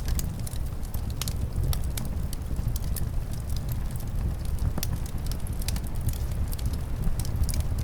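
Wood fire crackling, with frequent sharp, irregular pops over a steady low rumble of wind.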